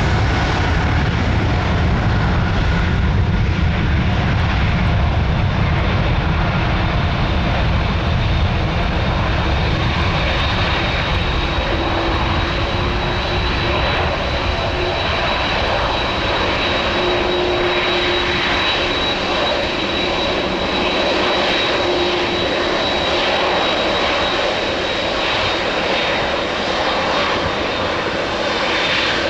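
Jet engines of a departing Boeing 777-300 running at takeoff thrust, a steady roar whose deep rumble weakens through the second half as the airliner climbs away, with a thin high whine coming in partway through.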